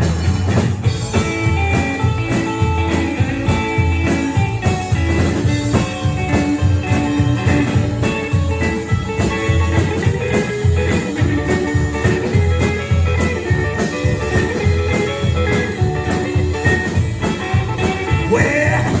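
Live rock-and-roll band playing an instrumental break with no singing: a guitar-led passage over a steady beat.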